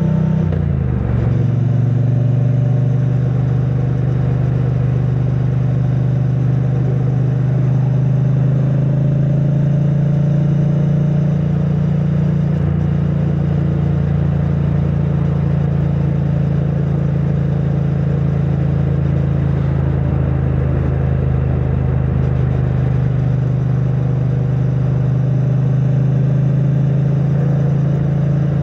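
2022 Triumph Bonneville T100's parallel-twin engine through its stock exhaust while riding; the engine note drops about a second in, then holds steady at cruising speed.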